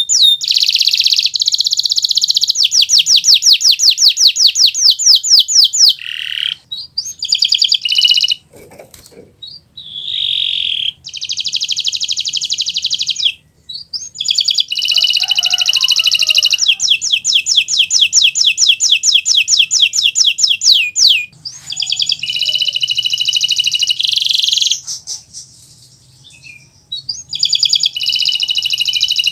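Domestic canary (Kenari Nusantara) singing in full song: long, fast, high-pitched trills of rapidly repeated notes, delivered in phrases several seconds long with brief pauses between them.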